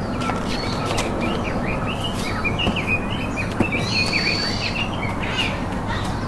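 Forest birds chirping in a rapid run of short high notes, with a longer steady whistle about four seconds in, over a constant rush of outdoor background noise.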